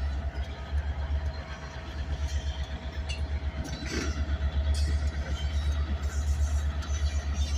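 Railroad tank cars being switched by a train: a steady low rumble with a faint steady tone, and a few sharp clanks about halfway through.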